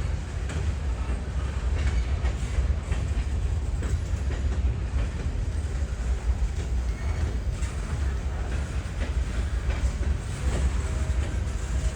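A train rolling past on the tracks: a steady heavy low rumble with scattered sharp clicks of wheels over the rails.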